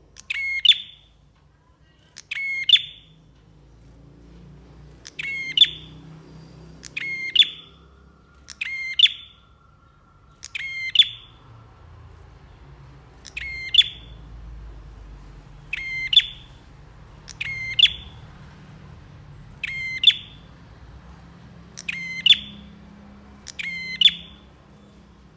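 Prinia (prenjak) calling: about a dozen short, sharp calls, each a quick rattle of clicky notes, repeated roughly every two seconds.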